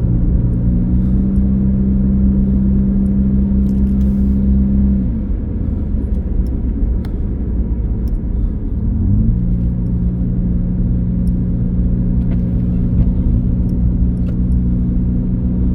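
Car engine and road rumble heard from inside the moving car. The engine's steady hum drops away about five seconds in and picks back up about nine seconds in, as the car slows and speeds up again on a winding road.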